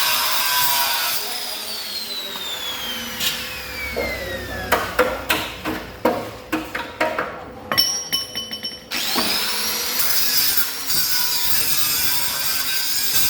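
Power tool working the Vespa's sheet-steel body, most likely an angle grinder. It runs, then winds down with a falling whine, and a run of sharp knocks follows. Near the end it spins back up with a rising whine and runs steadily again.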